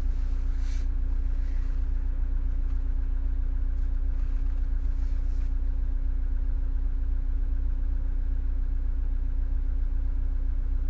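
Car engine idling, heard from inside the cabin: a steady low drone with a constant hum that does not change.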